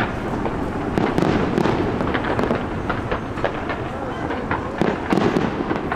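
Fireworks going off in quick succession: many sharp bangs and crackles over a steady din.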